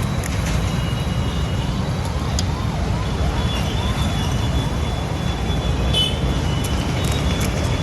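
Street noise from road traffic: a steady low rumble, with a short run of rising-and-falling warbling tones about two to four seconds in.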